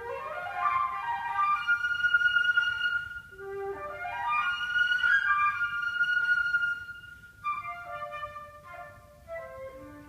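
Unaccompanied flute playing. Two fast upward runs climb from a low held note to high sustained notes, then short falling phrases come down near the end to settle on a low note.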